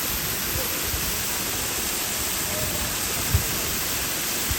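Steady rush of a waterfall's falling water, an even roar with no breaks. A short low thump sounds about three seconds in.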